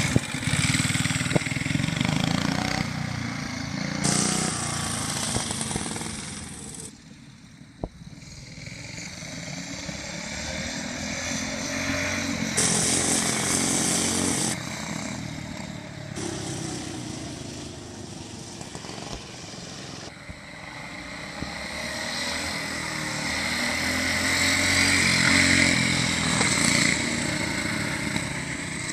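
Small single-cylinder engines of a vintage minibike and go-kart running, dropping off about a quarter of the way in, then growing louder toward the end before easing a little.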